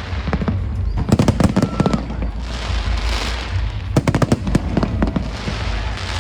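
Fireworks display: two quick volleys of bangs, about a second in and about four seconds in, with crackling fizz between them over a steady low rumble.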